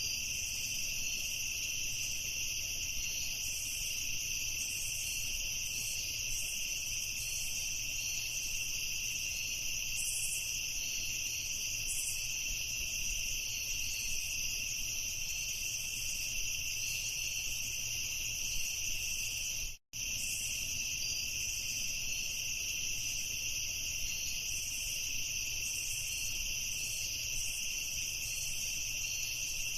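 Crickets chirping in a dense, steady chorus, with two high constant tones of trilling. A little before two-thirds of the way through, the sound cuts out completely for a split second and then resumes unchanged.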